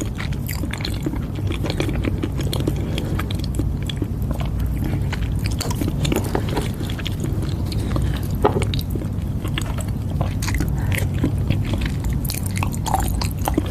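Close-up mouth sounds of chewing soft Thai coconut custard pudding (khanom thuai): many small wet clicks and smacks, over a steady low hum.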